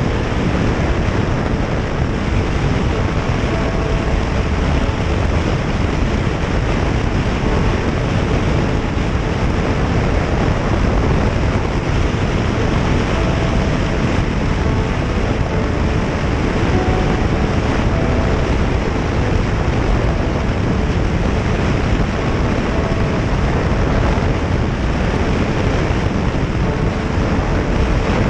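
Steady wind rush on the microphone of a moving motorcycle, with engine and road noise underneath and faint engine tones that come and go.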